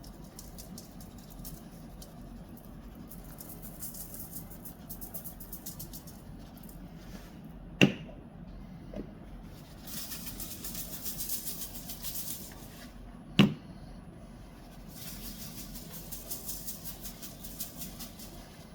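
Garlic powder being shaken from a spice shaker in three spells of fast, high-pitched rattling, with two sharp knocks between them.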